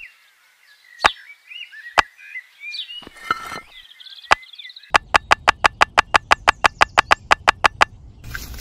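Miniature clay bricks set into a soil trench, each landing with a sharp click: a few single clicks about a second apart, then a fast, even run of about seven clicks a second for three seconds. Birds chirp faintly behind.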